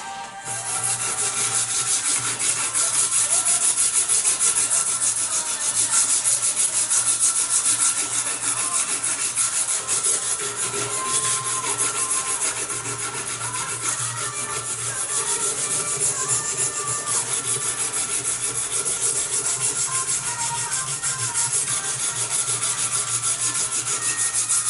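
Power sanding of a Kh12MF steel knife blank: a steady abrasive hiss with a constant motor hum beneath.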